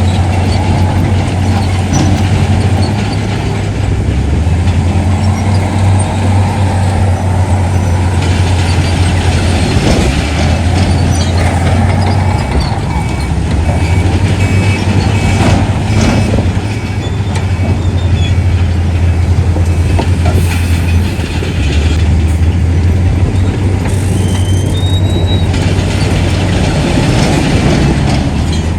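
Heavy diesel earthmoving machinery running steadily, a low engine drone with a few sharp knocks.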